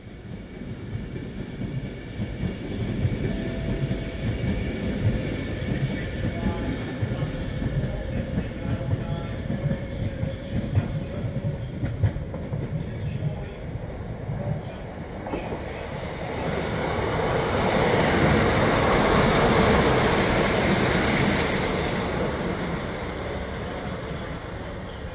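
A train on the move along the platform: a low rumble of wheels with clicking over the rail joints. Then a rushing noise swells to its loudest about three-quarters of the way through and fades.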